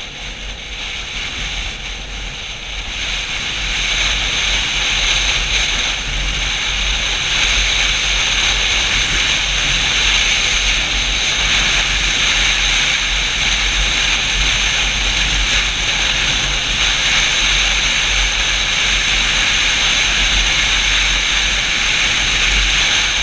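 Wind rushing over the microphone of a riding motorcycle, a steady hiss over a low rumble that grows louder about three seconds in and then holds.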